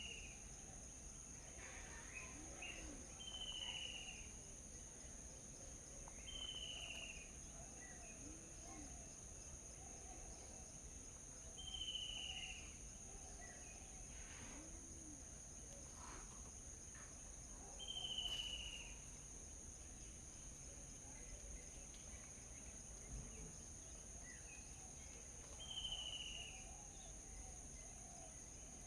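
Faint morning outdoor ambience: a bird repeats a short, falling call every few seconds, about six times, over a steady high-pitched drone of insects, with fainter low calls and scattered chirps from other birds.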